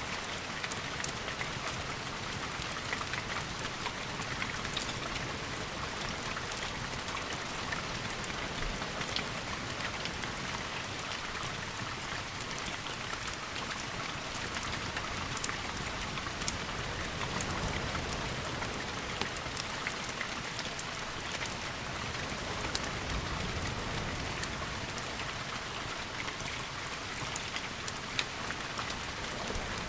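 Steady rain with many scattered sharp ticks of drops, and a soft low rumble that swells for a few seconds around the middle.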